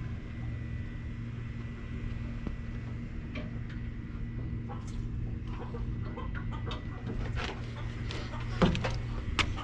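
A steady low machine hum with a faint high whine, and scattered short sharp clicks and knocks in the second half, the loudest a little before the end.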